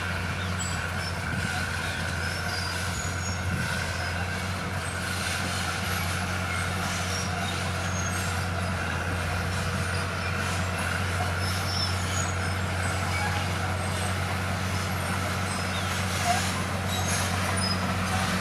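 Diesel engine of heavy earthmoving machinery running steadily with an even low drone.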